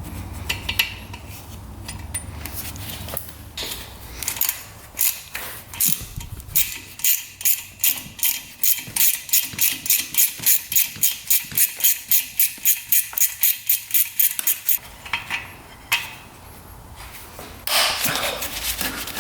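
Hand socket ratchet clicking as a tight bolt is backed out, a steady run of about four to five clicks a second. The clicking stops about fifteen seconds in, and a short scrape follows near the end.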